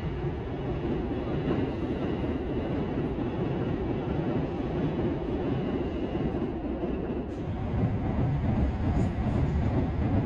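A train running past on the tracks, a steady low noise of wheels on rails that grows a little louder over the last few seconds.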